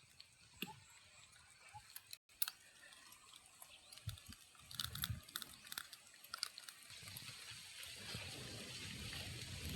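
Campfire with fish grilling on the coals: faint scattered crackles and pops, with a soft sizzling hiss that builds from about seven seconds in.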